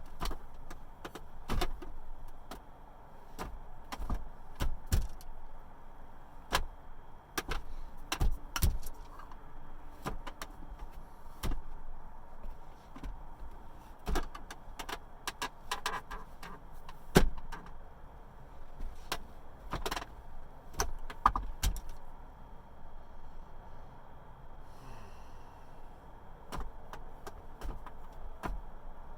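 Hands and forearms striking a flat wooden training dummy made from a 2x10 board: irregular sharp knocks and thuds, one to three a second, some much louder than others.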